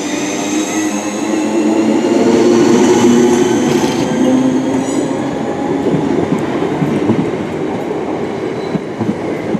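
Class 321 electric multiple unit pulling away, its traction motors whining in a slowly rising pitch over the rumble of the train. It is loudest about three seconds in.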